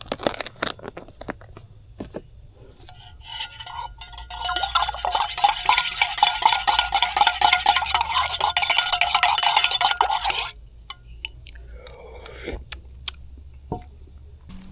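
A spoon stirring sugar into a cup of coffee: a few separate clinks, then rapid continuous clinking and scraping against the cup for about seven seconds, stopping suddenly. Insects chirp steadily in the background.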